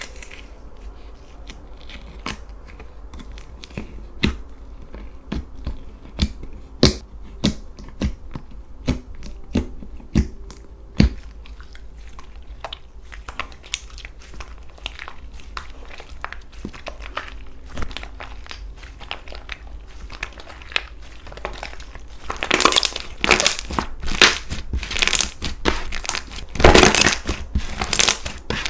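Slime being squeezed and pressed by hand, giving scattered sharp crackles and pops, which thicken into denser, louder bursts of crunching over the last several seconds.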